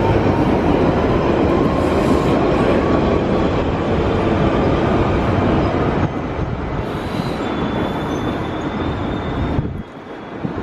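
London Underground 1992 Stock electric train running along the track, a loud, dense rumble with a faint, thin, high wheel squeal in the second half. The noise steps down about six seconds in and falls away abruptly near the end.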